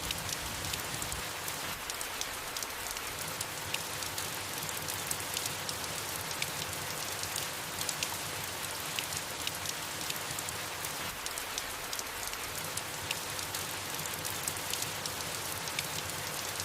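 Steady soft rain falling on leaves, an even hiss with many small drops pattering irregularly.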